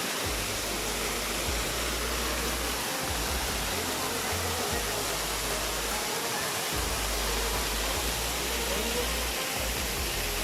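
Waterfall rushing close by: a steady, even roar of falling water, with a low rumble that comes and goes underneath.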